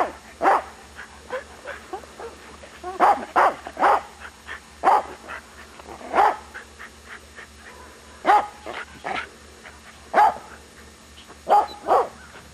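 A dog barking repeatedly: about a dozen short, sharp barks, some in quick pairs or threes, with pauses of a second or two between groups.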